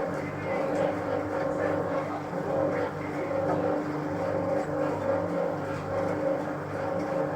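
1966 Bendix LA front-loading washing machine running in its second rinse, the motor humming as the drum turns and the water swishes. The hum swells and fades about every second and a half.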